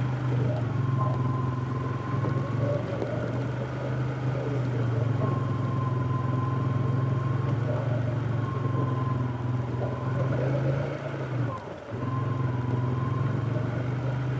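Fuel-injected Polaris ATV engine running steadily at a light trail speed, with a faint high whine that comes and goes. About twelve seconds in the engine sound briefly drops away, as when the throttle is eased, then picks back up.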